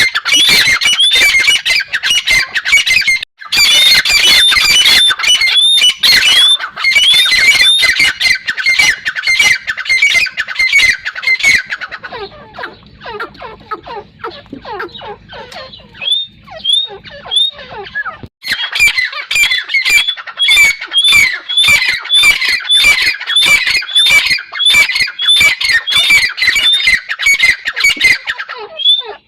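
Grey francolin calling: a fast, unbroken string of loud, shrill repeated notes. The notes soften for a few seconds near the middle, then come back loud.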